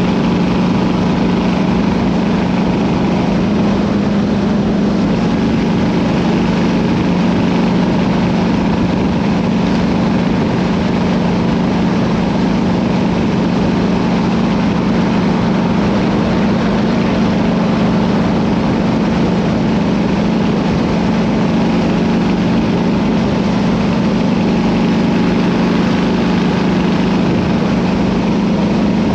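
Harley-Davidson Road King's V-twin engine with fishtail exhausts running steadily under way, with wind rushing past the rider.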